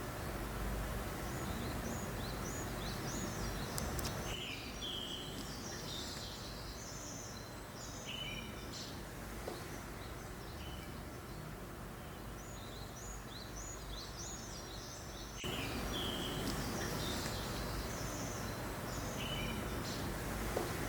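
Small songbirds chirping again and again over a steady breeze-like hiss. The hiss turns quieter about four seconds in and comes back up about fifteen seconds in.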